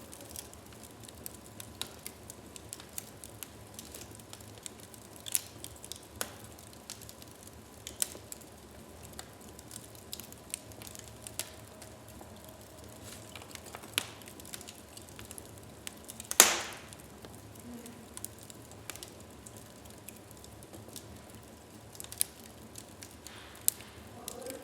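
Wood fire burning in a fireplace, crackling steadily with scattered sharp pops. The loudest single pop comes about two-thirds of the way through.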